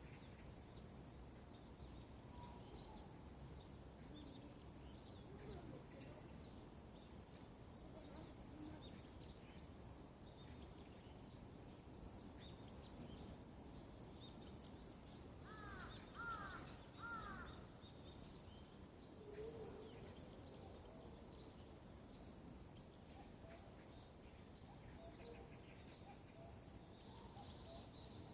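Faint birdsong and bird calls over a steady low background: scattered chirps throughout, with a short run of four or five call notes about halfway through.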